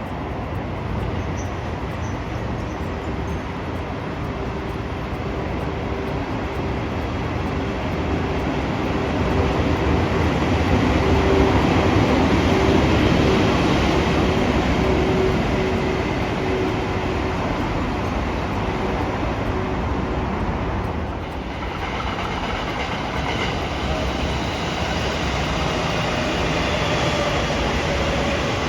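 A train running by, its noise growing louder toward the middle with a steady whine underneath. About two-thirds of the way through there is a brief drop, then a new set of whining tones that slowly fall in pitch.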